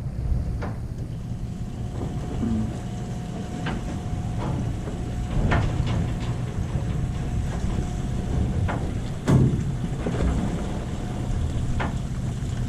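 Wind buffeting the microphone over the steady low rumble of a party fishing boat, with a few scattered knocks and clicks.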